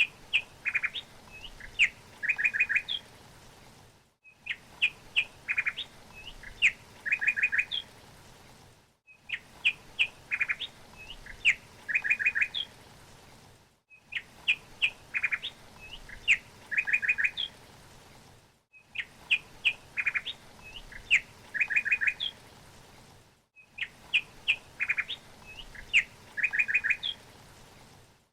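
A songbird singing a short phrase of chirps and a quick run of four notes, repeated about every five seconds and identical each time, with a brief silent gap between: one short recording looped.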